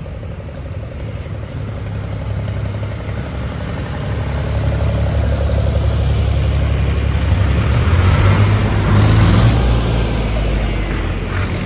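Tractor engine chugging as a tractor drives past. It grows louder to a peak about nine seconds in, then starts to fade.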